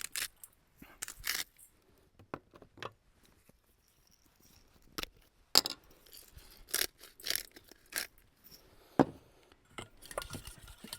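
Scattered small clicks, taps and scrapes of kitchen utensils, irregularly spaced with quiet gaps between: seasoning and mixing a sauce in a bowl.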